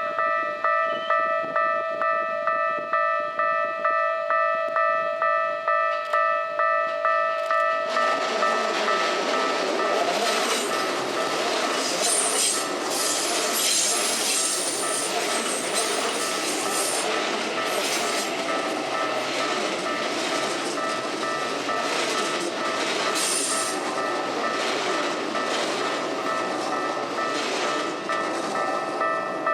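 Japanese level-crossing alarm ringing in quick, evenly repeated electronic dings. About eight seconds in, a Keikyu electric train passes over the crossing: loud wheel-on-rail noise with high squeals, the crossing bell still ringing underneath.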